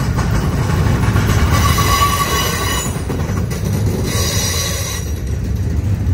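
Double-stack container train's well cars rolling past with a steady low rumble on the rails. A high-pitched squeal from the wheels rises over it about a second and a half in, and again around four seconds in.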